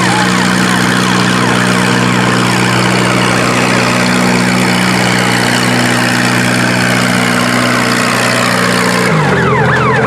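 Antique tractor engine running hard at steady high speed, its pitch dropping about nine seconds in as it is throttled back.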